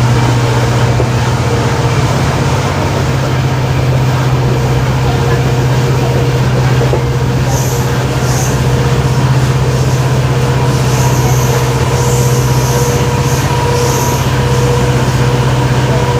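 Steady low hum of a WDP4D locomotive's EMD two-stroke diesel engine under a moving train, mixed with rail running noise. From about halfway through, short high-pitched squeaks come and go.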